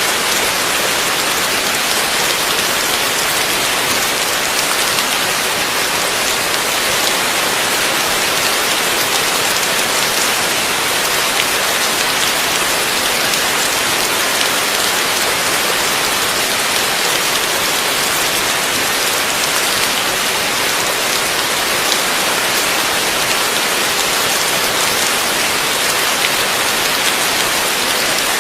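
Heavy rain falling steadily: a dense, even hiss of countless drops, with no thunder.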